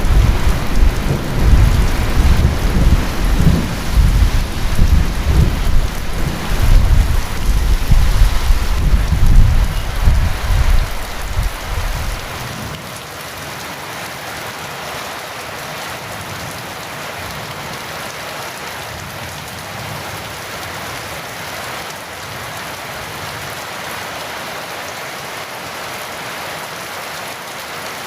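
Heavy rain falling steadily, with a long low rumble of thunder that surges and then cuts off about twelve seconds in, leaving the even hiss of rain.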